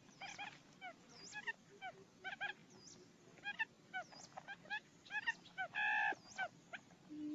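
Quail lure calls: many short, high chirps in quick, overlapping series, with one longer, louder note about six seconds in.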